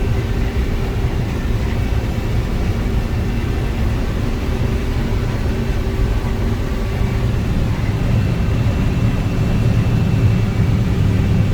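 Combine harvester running while harvesting corn, heard from inside the cab: a steady, loud low engine drone with a faint constant whine above it.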